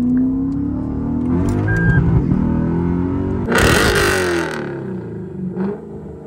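Lexus IS F's V8 engine revving, the pitch rising and falling, through its catback exhaust. A burst of rushing noise comes about three and a half seconds in and lasts about a second, followed by the engine note falling in pitch.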